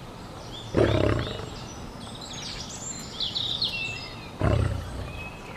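A large animal gives two short, low, rough calls, about a second in and again near the end, with small birds chirping in the background between them.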